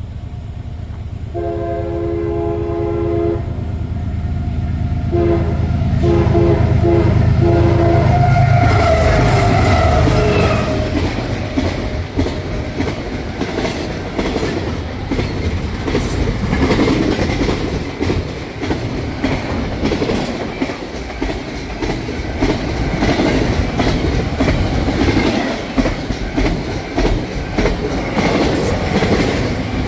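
A CSX freight train led by GE ES44AH and ES44AC diesel locomotives sounds its horn, one long blast then several short ones, as the locomotives pass close by. Their diesel engines swell to a peak and are followed by the steady clatter of intermodal container cars rolling past, with sharp clicks of wheels over rail joints.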